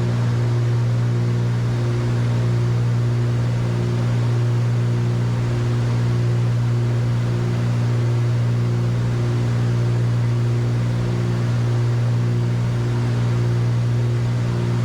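Cessna 310Q cockpit: the steady drone of its two piston engines and propellers in cruise descent, throbbing slowly about every second and a half, the beat of two engines turning at slightly different speeds.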